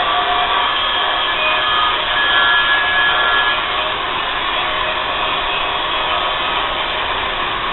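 Grinder running steadily while grinding metal on the blade, a continuous rushing noise with high whining tones that shift a little as the disc bites.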